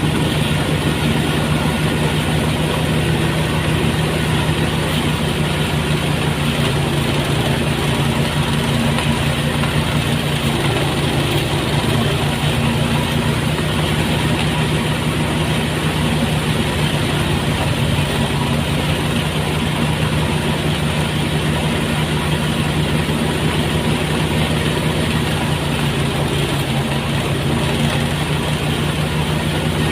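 Motorised rice thresher running steadily at a constant speed, its engine humming without a break.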